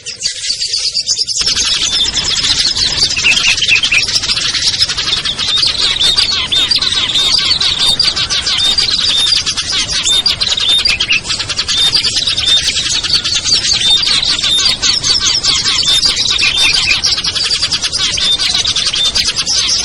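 A dense, busy chorus of small songbirds chirping and calling without pause, mixed together as a lure recording for trapping small birds. A steady low noise sits beneath from about a second in.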